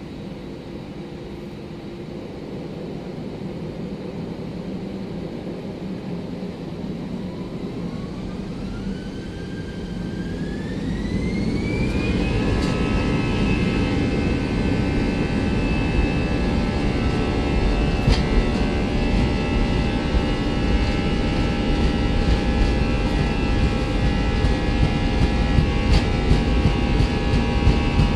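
Airbus A319's jet engines spooling up, heard from inside the cabin: a whine climbs in pitch for about four seconds partway in, then holds steady under a loud, growing low rumble, as the engines come up to takeoff thrust at the start of the takeoff roll.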